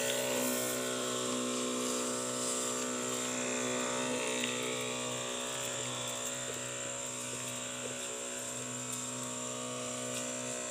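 Small engine running at a steady speed, its pitch holding constant throughout.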